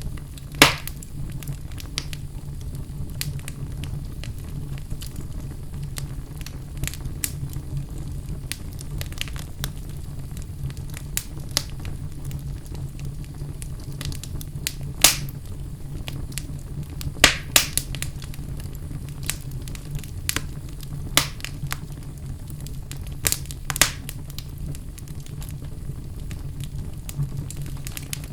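Wood fire burning in a fireplace: a steady low rumble of flames with scattered sharp crackles and pops, a dozen or so standing out louder than the rest.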